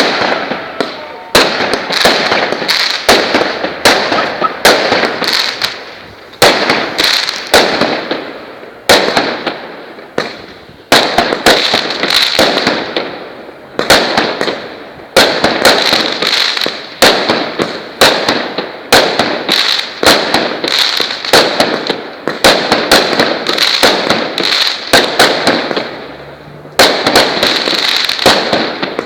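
Multi-shot fireworks battery firing: sharp bangs in quick clusters, each wave fading into a hissing crackle, a new wave starting about every two seconds.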